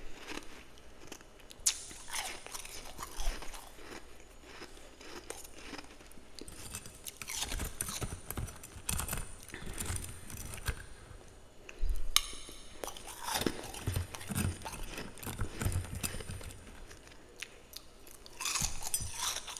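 A person biting and chewing freezer frost close to the microphone, with irregular crunches and squeaky, powdery chewing.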